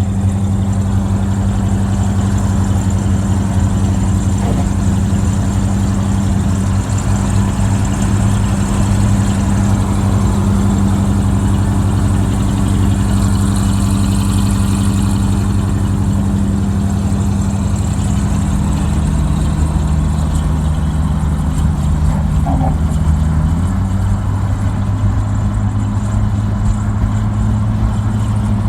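Dekotora truck's diesel engine pulling steadily up a slope, heard through a split exhaust manifold and dual mufflers as a deep, even exhaust note. The note shifts in pitch about three-quarters of the way through.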